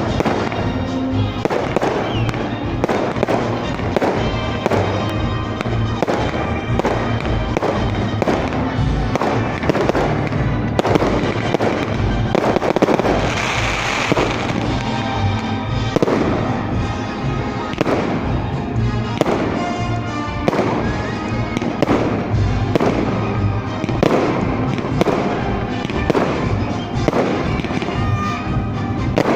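Fireworks display: a steady run of bangs from shells bursting, roughly one or two a second, with music playing along.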